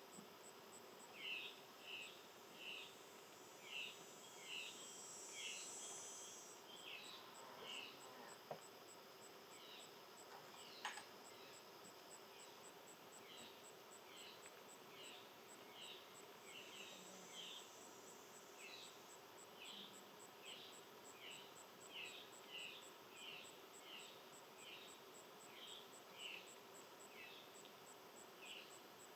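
Faint outdoor nature ambience: a long series of short high chirps, one or two a second, over a faint, evenly pulsing high insect trill.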